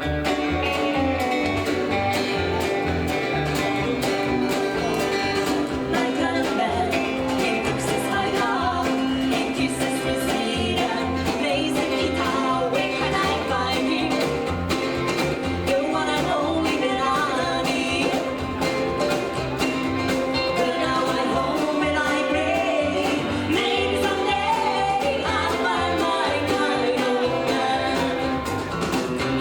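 Live rockabilly band playing: a steady, driving bass line and guitar, with a singer's voice coming in over them.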